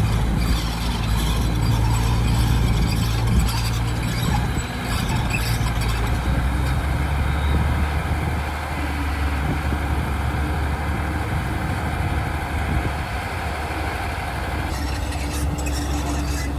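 Heavy machinery diesel engine running steadily, its low note dropping about six seconds in.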